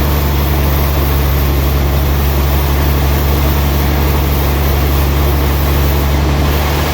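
Sawmill machinery running steadily with a loud, deep, constant hum under a wide noisy rush.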